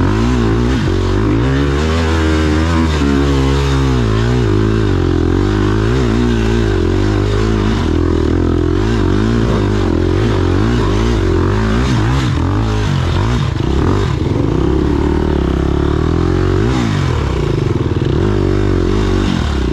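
Off-road motorcycle engine running under a rider, its revs rising and falling continually as the throttle is worked.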